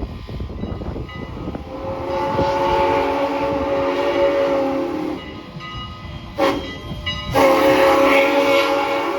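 A train's multi-tone chime whistle sounding two long blasts, the first held for about four seconds, the second starting about seven seconds in, with a short loud burst of noise between them.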